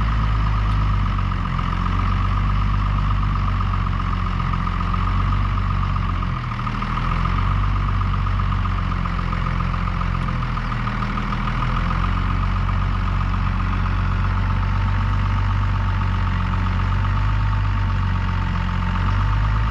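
Stuck truck's engine running steadily, its note shifting briefly about six seconds in and again around eleven seconds, with a steady higher whine above it.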